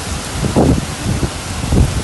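Heavy storm rain hissing steadily, with repeated gusts of wind buffeting the microphone.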